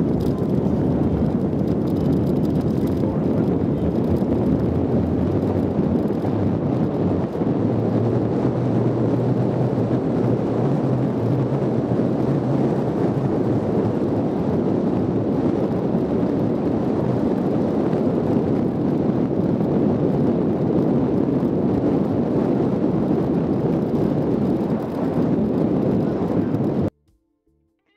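Jeep running off-road, a steady engine and driving noise with wind on the microphone; it cuts off abruptly near the end.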